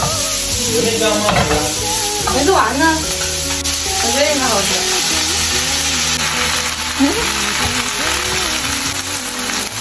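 Sliced onions sizzling in hot oil as they are stir-fried in a wok with a spatula, a steady frying hiss throughout.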